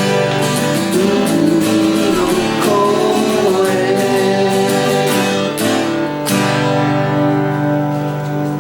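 Acoustic folk band music: strummed acoustic guitars with a melody line gliding over the chords, then a last firm strum about six seconds in whose chord rings on and starts to fade.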